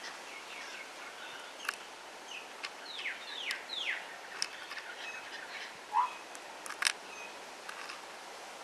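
Birds calling: a quick run of three descending chirps about three seconds in and a short rising call around six seconds, over faint background hiss. A few sharp ticks are scattered through, the loudest near the seven-second mark.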